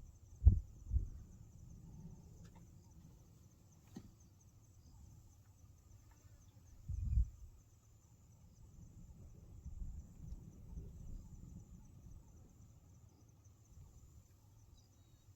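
Insects chirring steadily and high-pitched, with a few short low thumps near the start and about seven seconds in.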